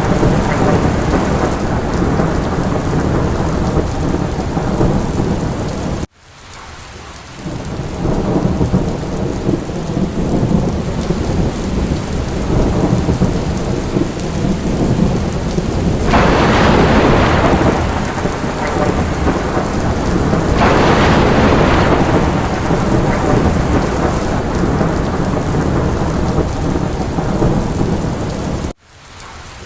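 Steady heavy rain with a low, continuous rumble of thunder. Twice the rain swells into a louder, brighter hiss for about two seconds each, around the middle. The sound cuts out abruptly about six seconds in and again near the end, then swells back in.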